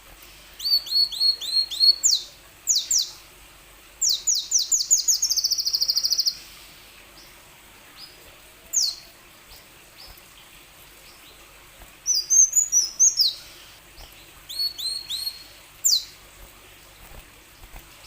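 A kolibri wulung sunbird singing: bursts of rapid, high, sharp down-slurred notes, with a fast trill about four seconds in and short pauses between phrases.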